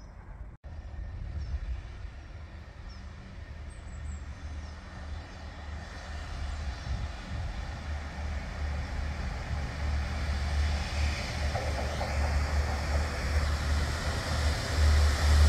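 Low diesel engine rumble of a train approaching the platform, growing steadily louder. The train is most likely Network Rail's railhead treatment train, a pair of Windhoff multi-purpose vehicles.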